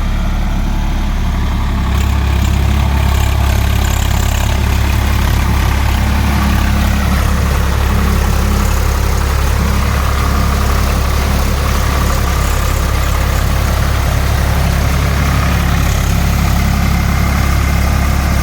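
Swaraj 855 FE tractor's three-cylinder diesel engine running steadily, getting louder about two seconds in.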